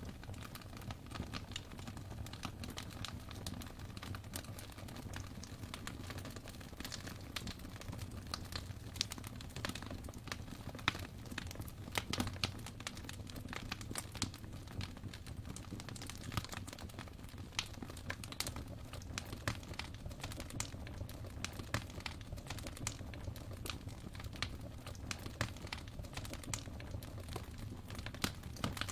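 Fire burning in a fireplace, crackling with frequent irregular sharp pops over a low steady rumble.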